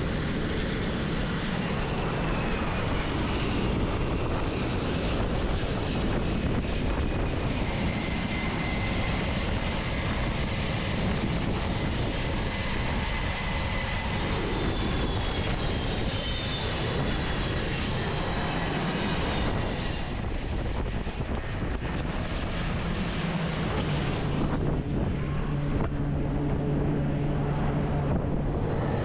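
Aircraft engines running loudly, a steady wash of noise with faint whining tones that glide up and down. The sound changes abruptly a few times, about halfway through and again near the end.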